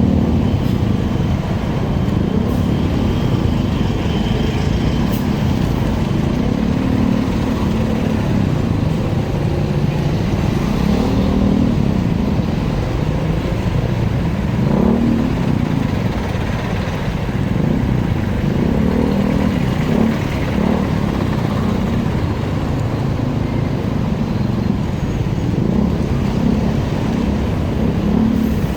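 Motorcycle engine running on the move, its note rising and falling with the throttle every few seconds, over a steady low rushing noise.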